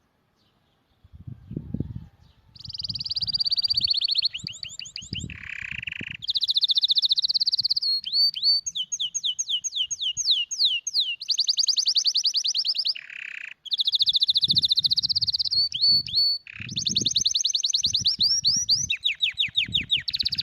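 Canary singing a long song of trills and rolls, runs of rapid repeated notes, some sweeping down in pitch, broken by brief pauses. Low bumps sound underneath at times.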